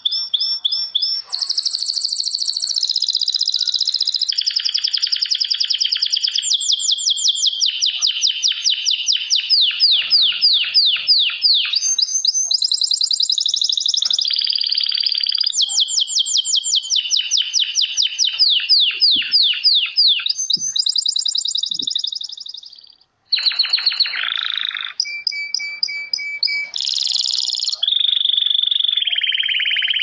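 Songbirds singing: fast trills and rapidly repeated high chirps, switching abruptly from one phrase to another, with a brief break a little over two-thirds through.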